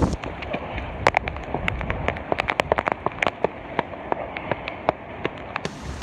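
Hurricane rain striking a hard surface close to the microphone in sharp, irregular ticks over a steady wash of rain noise.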